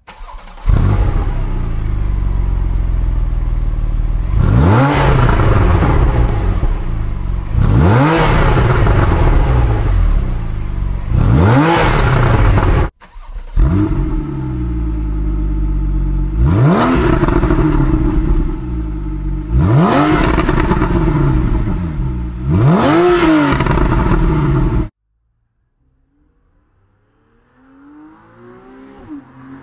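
Porsche 911 flat-six engine with the Porsche Sport Exhaust idling and blipped up in quick revs, three rev blips, a break, then three more, each rising sharply in pitch and falling back to idle. Near the end the engine sound cuts off, and a faint engine sound rises in level.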